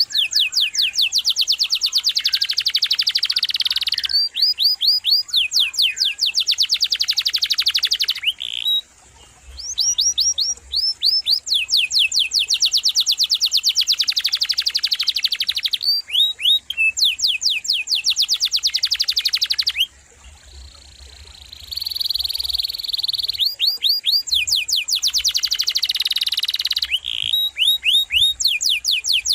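Domestic canary singing long rolling trills of rapid, evenly repeated notes, in phrases broken by short pauses about nine and twenty seconds in.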